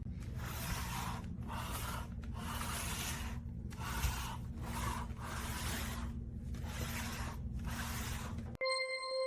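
Chair leg being slid back and forth across the floor: a rubbing scrape about once a second, repeated some eight times. Music starts near the end.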